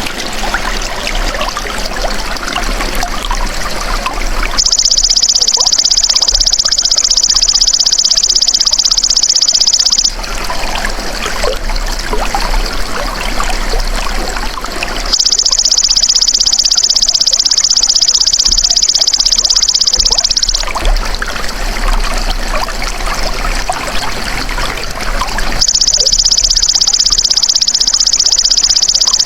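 Buzzing, even trill of the belalang emas (golden grasshopper) insect, in three bursts of about five to six seconds each, alternating with stretches of trickling, flowing water.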